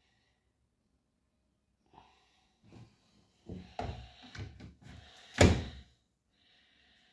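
Arçelik 9120M front-loading washing machine being handled as it is set up: a string of knocks and clicks, then one loud thump about five seconds in, like its door or detergent drawer being shut.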